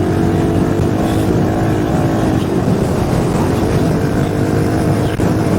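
Dirt bike engine running at fairly steady revs while riding, with wind buffeting the helmet microphone.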